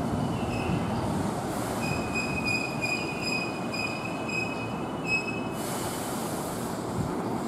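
Keihan electric train running through the platform, its wheels giving a high, steady squeal for a few seconds, followed by a short hiss.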